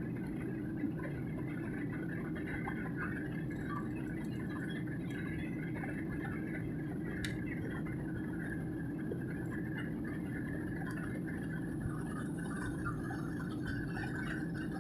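Steady airliner cabin noise from inside the passenger cabin: the engines and the airflow over the fuselage running evenly while the aircraft descends to land, with faint scattered sounds from the cabin.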